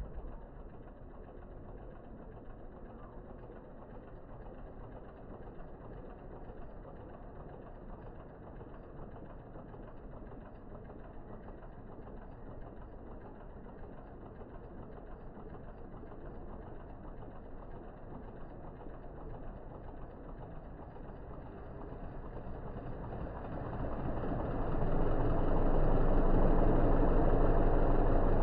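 Toyota Corolla GLI's engine running steadily, then growing much louder over a couple of seconds about 24 seconds in and staying loud.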